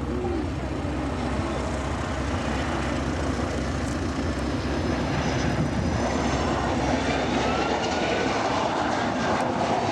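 Boeing 757-200's two large turbofan engines on a slow, nose-high flypast: a steady jet rumble that grows gradually louder, with a faint whine that glides in pitch in the second half.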